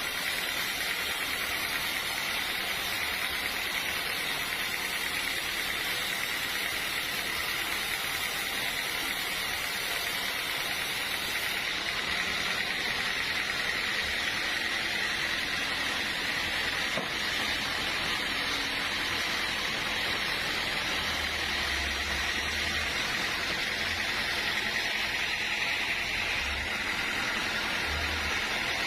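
Sawmill machinery running steadily: a continuous hissing noise with a faint steady high tone, and a few short low rumbles near the end.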